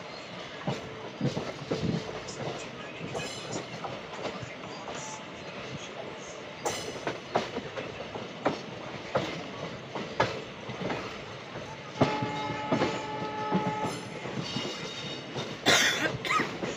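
Passenger train running through points and crossings, heard from an open coach door: a steady rush of running noise with irregular clicks and clacks of the wheels over rail joints and switches. A held pitched tone lasts about two seconds some twelve seconds in, and a sharp high screech comes near the end.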